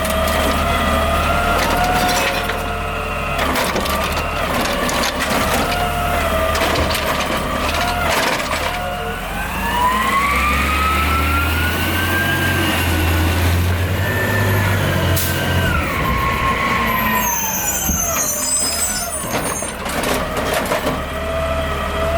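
Garbage truck's diesel engine running with a whining hydraulic pump and occasional clanks. About nine seconds in, the engine and whine climb in pitch and hold, then fall back over a few seconds as the truck's hydraulics work.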